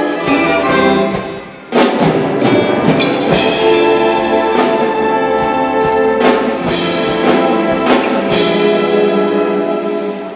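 Youth symphony orchestra playing a sustained passage with sharp accented strikes; the sound dips briefly about a second and a half in, then the full orchestra comes back in loudly.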